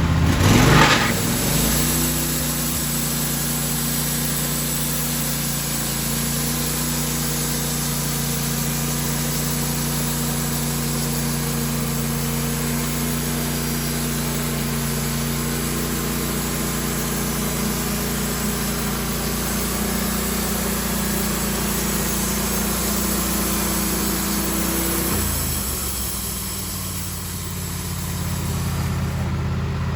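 An engine running steadily at a constant speed. Its pitch shifts briefly about a second in and drops around 25 s before picking up again near the end.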